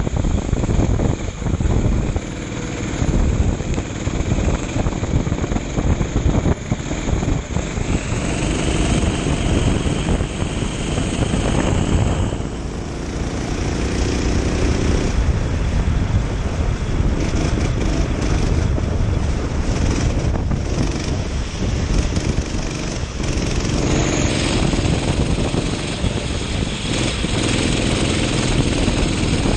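Kart engine running at speed, its revs rising and falling through the laps, with wind buffeting the microphone.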